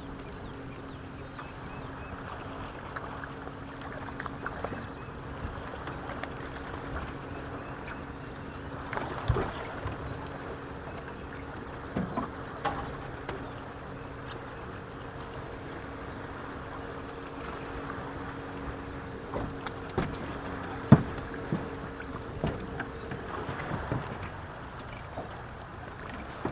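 A boat's motor humming steadily over a wash of water and wind noise, with a few sharp knocks against the hull; the hum fades out near the end.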